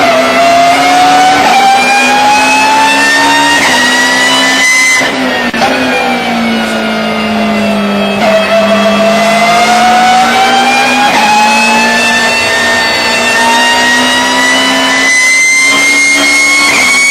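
BMW E36 race car with a straight-cut gearbox, driven hard. The engine note climbs steadily under acceleration, breaks twice a few seconds in as it shifts, sinks while the car slows, then climbs again through the gears.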